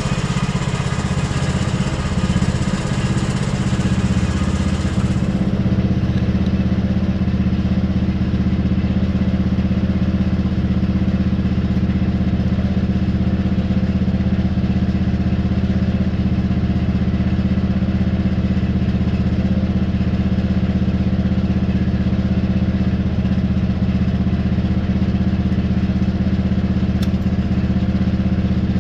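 A small engine running at a steady speed, with an even, unbroken hum.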